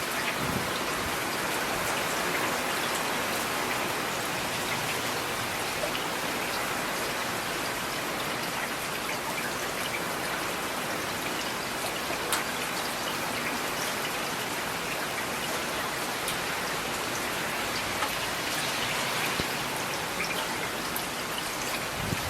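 Steady rain falling: an even hiss at a constant level, with scattered sharper ticks of single drops.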